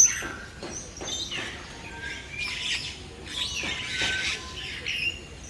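Many birds calling at once: short overlapping chirps and calls, with a sharp click at the very start.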